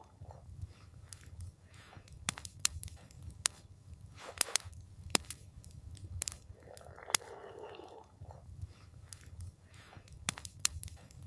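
Campfire crackling: irregular sharp pops and snaps of burning wood, several a second at times, over a low steady rumble, with a brief soft rushing hiss about seven seconds in.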